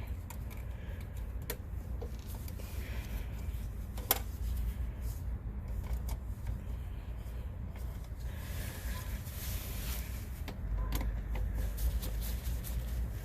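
Scattered sharp clicks and light rattles of hand tools and wires being handled while wiring in a surge protector at an AC unit's contactor, over a steady low hum.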